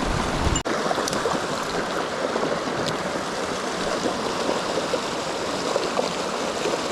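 Fast-flowing mountain stream rushing steadily over rocks. The sound cuts out for an instant about half a second in, and afterwards has less low rumble.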